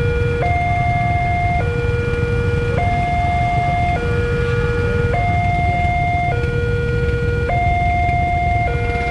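Railway level-crossing warning alarm sounding: an electronic two-tone signal that alternates steadily between a higher and a lower tone, each held about a second, over a low rumble.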